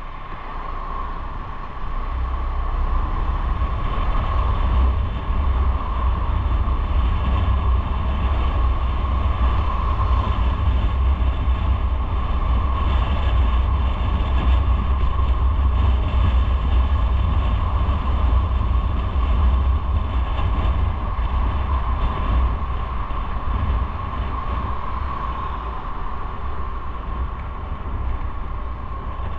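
Motorcycle on the move: engine and road noise under a heavy wind rumble on the camera microphone, getting louder about two seconds in and easing slightly near the end.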